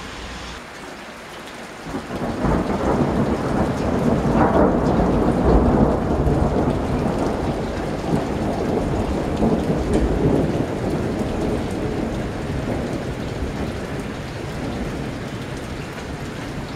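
Thunder over steady rain: a roll of thunder begins about two seconds in, builds to a loud rumble, then dies away slowly over about ten seconds while the rain keeps falling.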